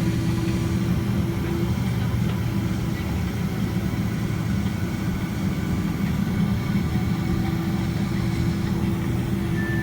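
Steady low rumble inside the cabin of a Boeing 767-300ER taxiing with its two jet engines near idle. A faint steady hum drops out early on and returns about seven seconds in.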